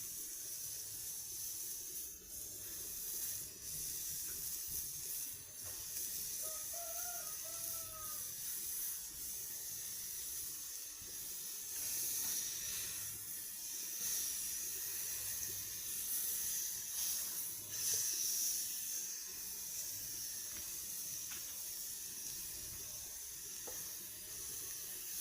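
Seasoned pork ribs sizzling steadily on a hot charcoal grill.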